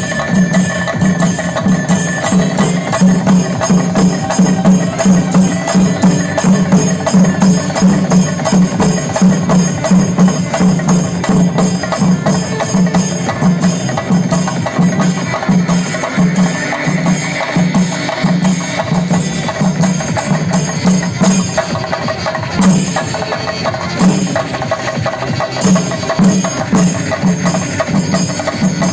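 Chenda melam: a Kerala ensemble of chenda drums beaten with sticks in fast, dense rolls, with ilathalam hand cymbals ringing over the drums. The playing is loud and continuous.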